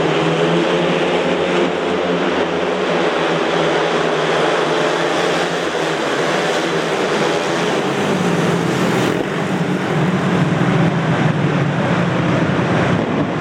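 Speedway motorcycles racing: several single-cylinder 500 cc methanol engines running hard, their pitch rising and falling as the riders go round the track.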